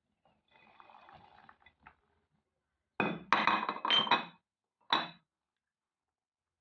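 Glassware and dishes clinking, in a quick cluster of knocks about three seconds in and one more a second later, after a faint pouring sound.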